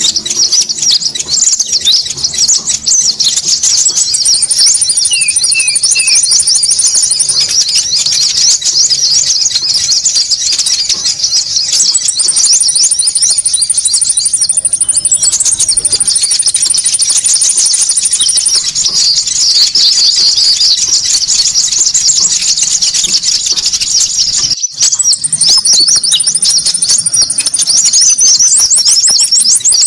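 Bird-lure recording of konin birds calling noisily: dense, rapid, high-pitched chattering, with a steady high trill that comes in and out several times. The sound breaks off for a moment about 25 seconds in.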